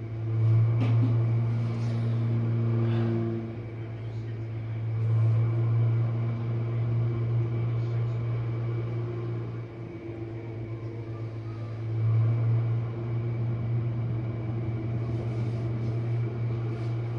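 Jenn-Air dishwasher running mid-cycle: a steady low hum that swells louder a few times.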